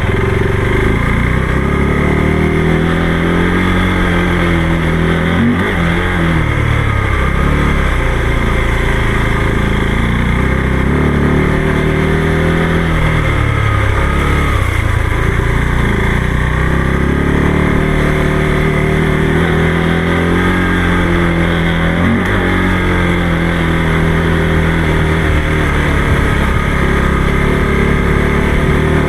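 Motorcycle engine running while riding, its pitch rising and falling with throttle and gear changes, dropping noticeably three times.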